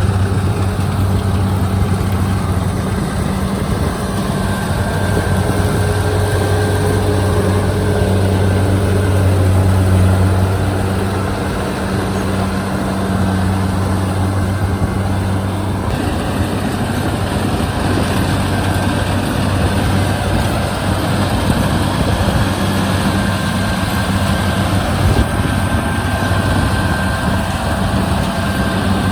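Kubota DC-73 rice combine harvester's diesel engine running steadily under load in a muddy paddy, a continuous low hum that shifts in tone about sixteen seconds in.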